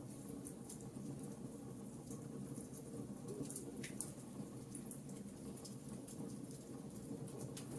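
Wood fire crackling in a fireplace: scattered sharp pops and ticks over a steady low rumble of the flames, with one stronger pop about four seconds in.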